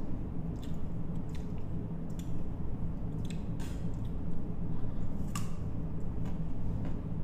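Close-up chewing of crisp green mango slices, with sharp crunches at irregular intervals.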